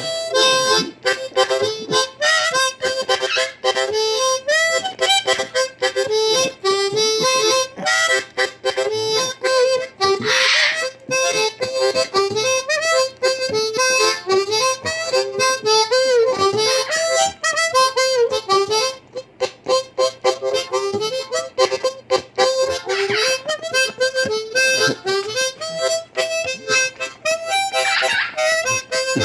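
Blues harmonica played continuously with bent, sliding notes. A few short squawks from eclectus parrots cut through the playing.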